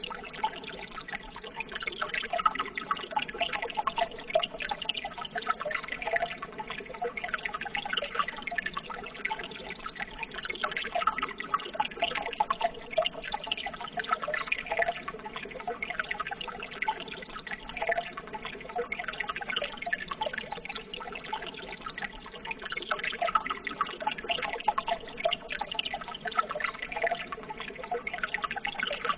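Running water trickling and splashing steadily, with many small drips and splashes.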